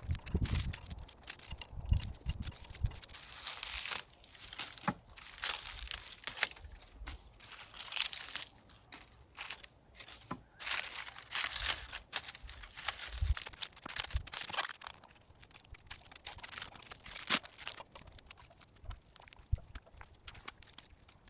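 Dry dead strawberry leaves crackling and tearing as they are removed from the plants, in irregular bursts of rustling and sharp snaps.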